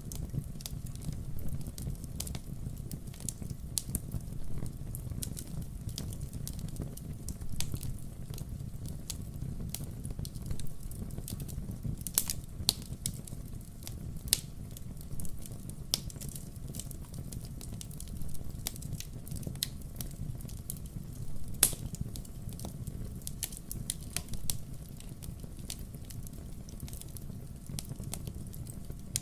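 Wood fire crackling: frequent sharp pops and snaps over a steady low rumble, with a few louder pops scattered through.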